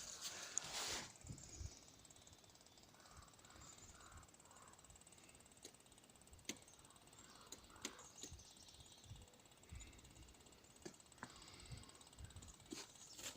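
Near silence, with a brief rustle in the first second and then a few faint, scattered clicks. No engine is heard running.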